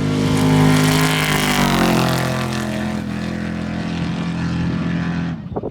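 Off-road race vehicle engine at full throttle passing close by: its loud, steady note drops in pitch about two seconds in as the vehicle goes past, then holds until it cuts off abruptly near the end.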